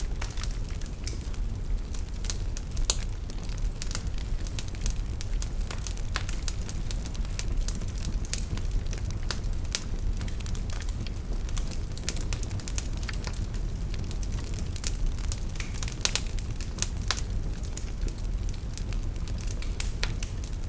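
Wood fire burning in a fireplace, with a steady low rumble of flames and frequent irregular crackles and pops from the logs.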